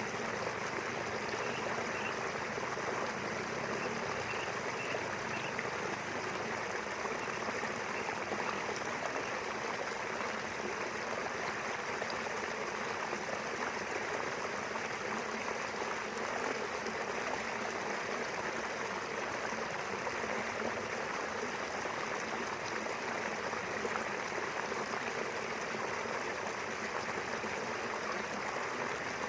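A small river flowing steadily, a continuous, even rush of running water.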